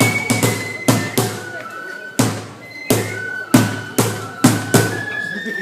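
Festival music for a shrine procession: sharp drum strikes at an uneven pace of about two a second, with short high held notes sounding between them.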